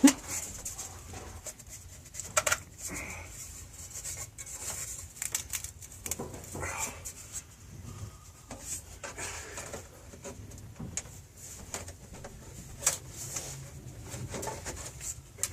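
Scattered clinks, knocks and scraping of hand tools on water-heater pipe fittings being worked by hand; the old fittings are stuck and won't twist.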